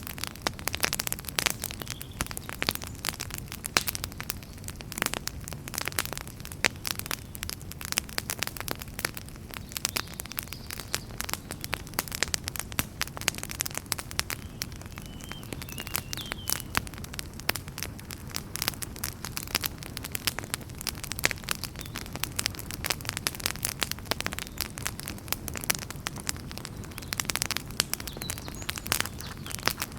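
Wood fire in a fireplace crackling: many sharp pops and snaps over a continuous low rush of the flames, the crackles thinning out somewhat midway and thickening again near the end.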